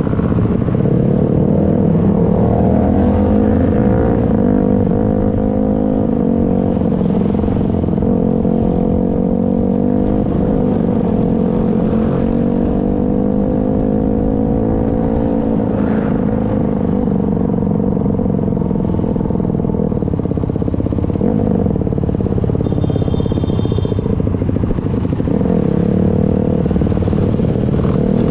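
Motorcycle engine running continuously, its pitch slowly rising and falling as the throttle opens and closes.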